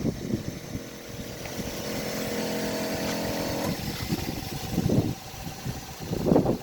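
The 12-volt espresso machine's motor runs with a steady hum that cuts off about three and a half seconds in. Two short low sounds follow near the end.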